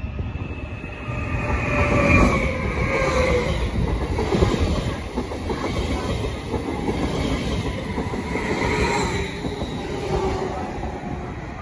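SBB double-deck electric multiple unit passing close by on the station track: a steady rumble with high whines that slide slowly down in pitch. It swells about a second in, is loudest around two to four seconds in, then eases off.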